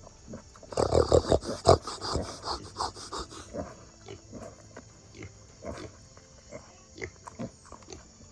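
Pigs grunting: a loud, rapid run of grunts about a second in lasting a couple of seconds, then quieter scattered grunts. The pigs are squabbling at feeding.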